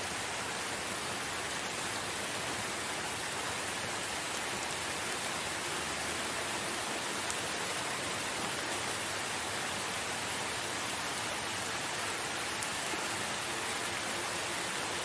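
Steady rain falling, an even hiss of many drops with no let-up or thunder.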